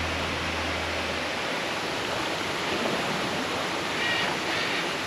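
Waterfall rushing: a steady, even wash of falling water. Background music fades out in the first second or so, and two short high-pitched sounds come near the end.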